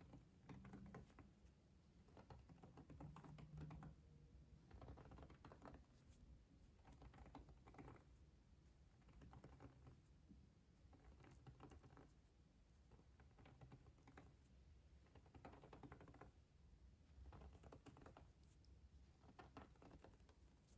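Faint, light tapping clicks in short clusters, about one cluster a second, made as a close-up ASMR trigger.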